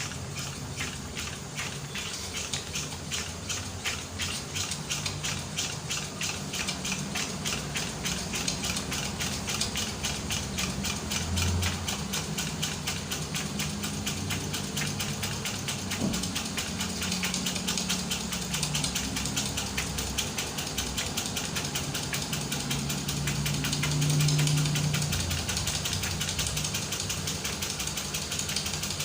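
Small homemade steam engine, built from old electric-fan parts, running on steam from a boiler, with a fast, even mechanical clicking.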